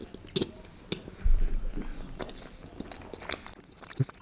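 Close-miked chewing and biting of food, with scattered small crunches and wet mouth clicks. There is a low thud about a second in.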